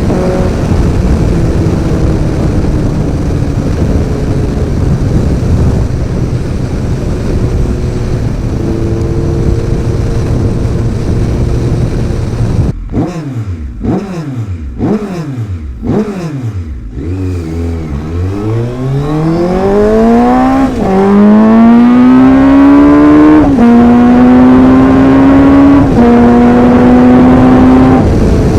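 Suzuki Bandit 1250's inline-four engine through an aftermarket exhaust and headers, under way: steady running for about twelve seconds, then several quick rev blips, then hard acceleration with the pitch climbing and dropping at three upshifts, loudest near the end.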